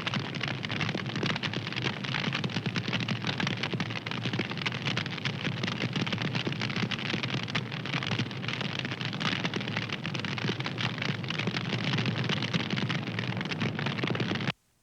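Fire crackling steadily, a dense run of small pops and snaps over a soft hiss. It cuts out briefly just before the end.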